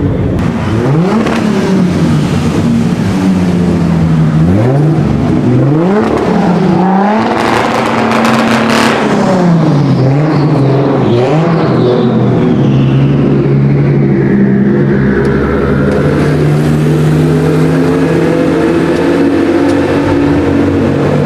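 High-performance car engines revving and accelerating, the pitch climbing and falling several times as the revs rise and drop, then a steadier engine note in the second half.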